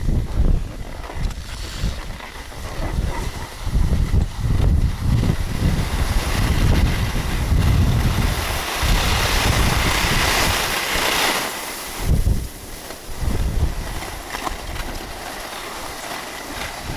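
Wind buffeting the microphone in irregular gusts, with a steady rushing hiss that swells for a couple of seconds about nine to eleven seconds in.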